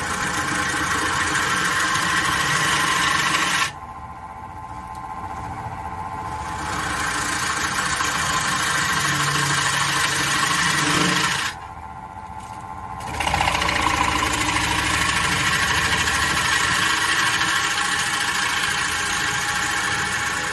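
A wood lathe running with a gouge cutting into the spinning black walnut blank. The cutting noise cuts off suddenly twice as the tool comes off the wood, leaving the lathe's steady hum, then builds back as the tool goes in again.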